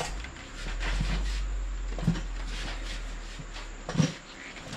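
Rubber tire being forced by hand onto a steel wheel rim to seat the first bead: rubbing and a few dull knocks, the loudest near the end.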